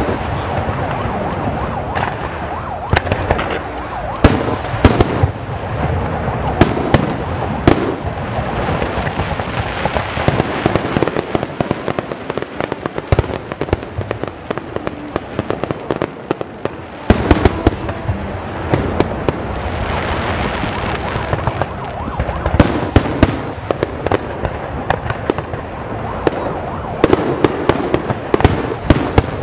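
Aerial fireworks display: a continuous crackle of bursting stars with many sharp bangs of shells exploding, thinning out for a few seconds around the middle before picking up again.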